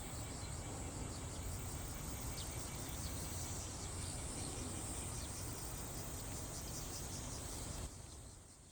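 Cicadas singing: a steady high-pitched drone with a low rumble underneath. The sound drops away suddenly near the end and fades out.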